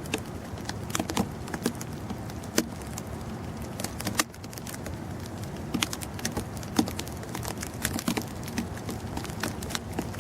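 Blizzard snow pattering in irregular light ticks, several a second, over a steady hiss.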